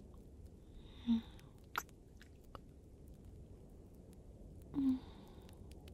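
Close-miked wet kissing sounds: soft mouth smacks and small wet clicks, with two short breathy hums, one about a second in and one near the end.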